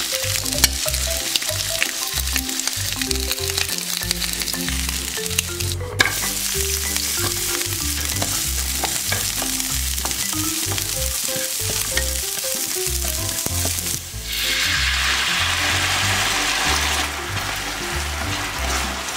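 Oil sizzling in a frying pan, first under pan-fried eel fillets and then under sliced garlic being sautéed. About fourteen seconds in the sizzle turns louder and fuller as a gochujang-based seasoning sauce goes in and bubbles with the garlic while it is stirred.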